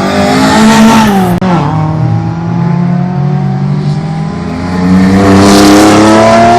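Rally car engine revving hard: the pitch climbs, drops sharply about a second and a half in, then holds and climbs again, loudest near the end.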